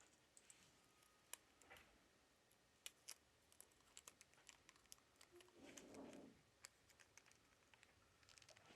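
Faint, scattered small clicks and taps, with a brief soft rubbing sound about six seconds in: tools and small parts being handled while a tablet is put back together.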